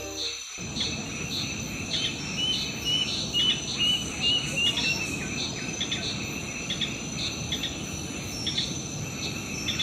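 Crickets or similar insects trilling steadily, with a bird giving short, repeated chirps about twice a second. A music track cuts off in the first half second.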